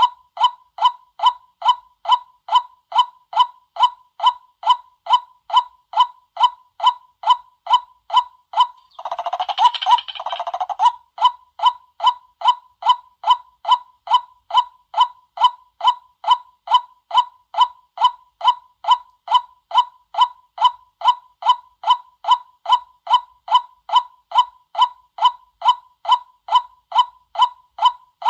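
White-breasted waterhen call played as a hunter's lure recording: a short "kwak" note repeated with machine-like regularity, about two a second. Around nine seconds in, a louder, rougher burst of about two seconds breaks in before the even calling resumes.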